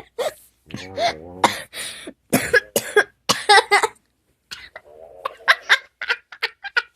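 Overweight French bulldog snoring: an irregular series of short, rasping snorts, with a brief pause partway through.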